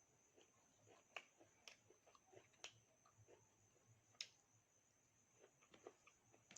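Faint eating sounds: scattered soft clicks and small crunches of chewing at an irregular pace.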